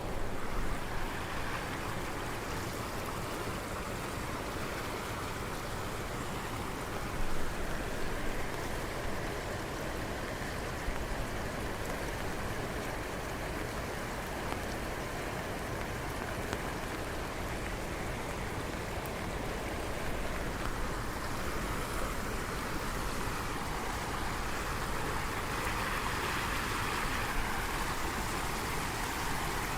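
Steady rain falling, a continuous rushing hiss with a few brief louder patters about a second in and around seven seconds.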